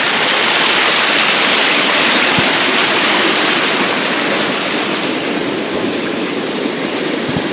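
A waterfall: a loud, steady, unbroken noise of falling water.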